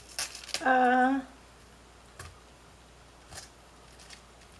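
A woman's brief wordless vocal sound, held on one steady pitch for about half a second, with a few light clicks and knocks of handling things before and after it.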